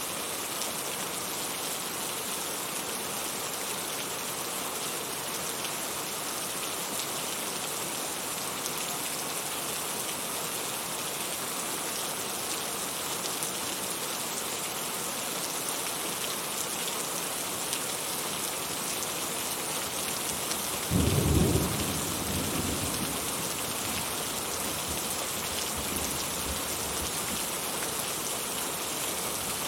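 Steady rain falling in an even hiss, with a sudden loud clap of thunder about two-thirds of the way through that rumbles away over several seconds.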